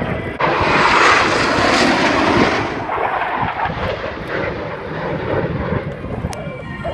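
Fixed-wing aircraft passing, a loud rush of engine noise that starts abruptly about half a second in, is loudest for about two seconds, then fades to a lower rumble.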